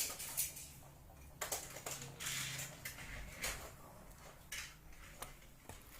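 Irregular clicks, light knocks and short rustles of packaging and plastic parts being handled.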